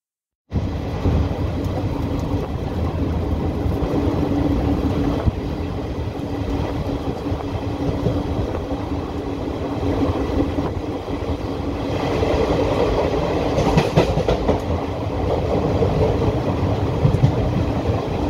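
Indian Railways ICF passenger coach running along the track: a steady rumble of wheels on rails with a few sharp track clicks, growing louder about two-thirds of the way through. The sound drops out for half a second at the very start.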